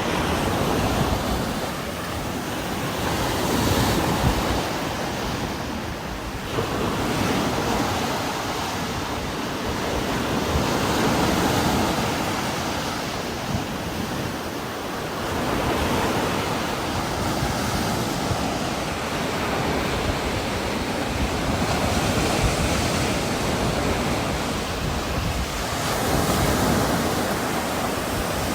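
Heavy rain with strong wind blowing through trees, a dense steady wash that swells and eases in gusts every few seconds.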